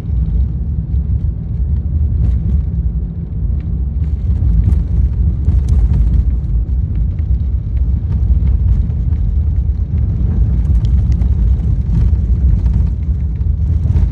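Car driving over a snow- and ice-covered road, heard from inside the cabin: a steady low rumble of road and tyre noise, with scattered small knocks and clicks from bumps.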